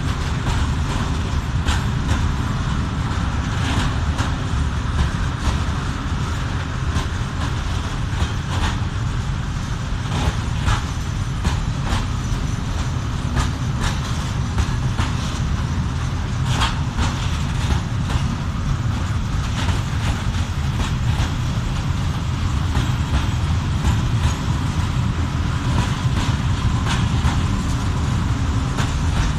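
Freight train of coal-laden open wagons rolling past: a steady low rumble of the wagons with scattered sharp clicks and clanks from the wheels over the rail joints.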